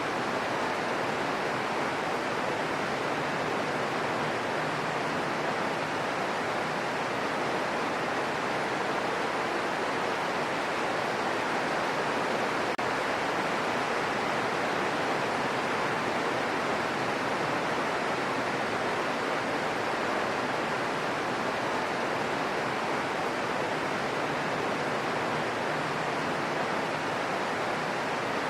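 Steady rain falling, an even hiss that holds constant throughout with no distinct drops, thunder or other sounds standing out.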